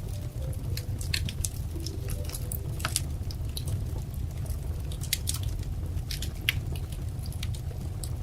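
Wood fire crackling: irregular sharp pops and snaps, several a second at times, over a steady low rumble of burning.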